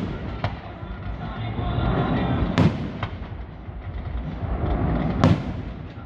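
Fireworks going off: a few sharp bangs, the loudest about two and a half seconds in and again a little past five seconds, over a steady low rumble.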